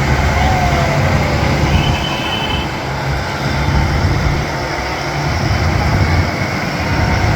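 Farm tractor engines running steadily as tractors drive past in a line.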